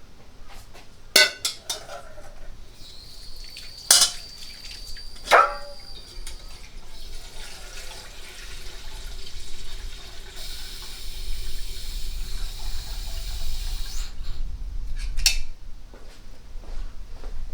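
Camp cooking: metal cookware clanking sharply three times, then a steady run of water or liquid that swells after about ten seconds and stops abruptly, with one more clank near the end.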